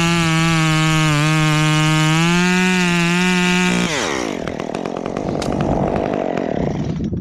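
Two-stroke chainsaw held at high revs, its pitch sagging briefly about a second in. About four seconds in the revs fall away and it runs on with a rough rattle, then cuts off abruptly at the end.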